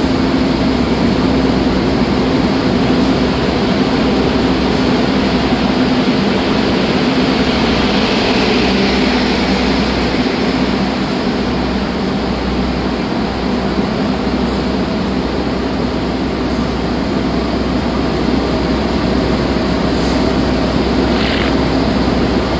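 Steady diesel hum from a standing Indonesian train's engine next to the platform, running unchanged throughout. A passenger train pulls out on the adjacent track, adding a rolling, hissing wheel-on-rail noise that is strongest about eight to ten seconds in.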